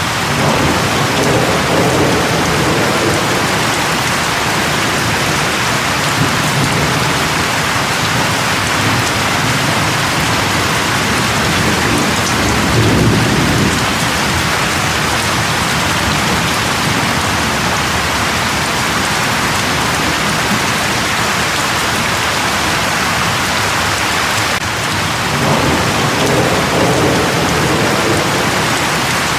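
Steady, heavy rain falling, with low rumbles of thunder rolling in near the start, once in the middle and again near the end.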